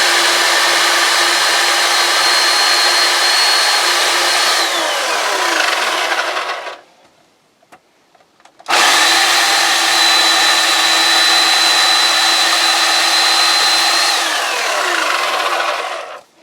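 Electric chainsaw running at full speed with a steady high motor whine, twice for about five seconds each, cutting limb wood; each run ends with the motor winding down, falling in pitch, after the trigger is let go.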